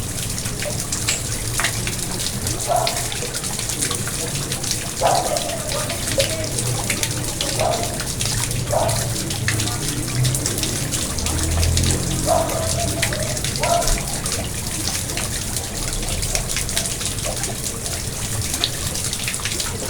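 Garden pond water running and splashing steadily, with short lower gurgling blips every couple of seconds.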